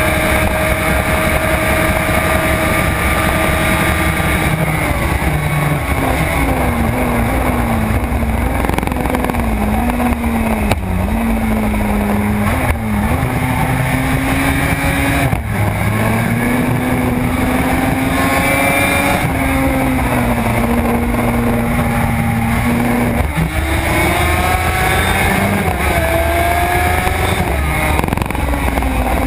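Suzuki RG500 two-stroke square-four racing motorcycle engine at full-speed track riding, heard from on board. Its pitch climbs and drops repeatedly as the revs rise through the gears and fall back at the shifts and braking.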